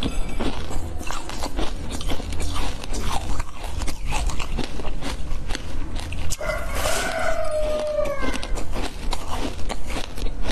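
Close-miked eating sounds: a soft pastry being bitten and chewed, with many small wet mouth clicks. About six and a half seconds in comes a hummed 'mmm' lasting under two seconds, falling slightly in pitch.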